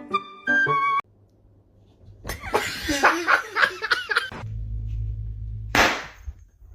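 A short musical phrase ends about a second in. After a brief silence a person laughs for about two seconds, then a low hum and a short noisy burst follow.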